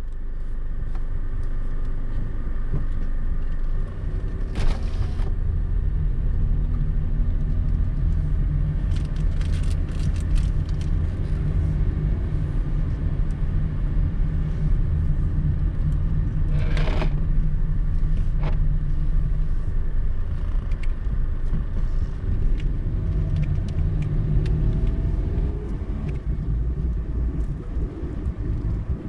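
Car driving on a road: a steady low rumble of engine and tyre noise. Brief knocks come about five seconds in and again around seventeen seconds.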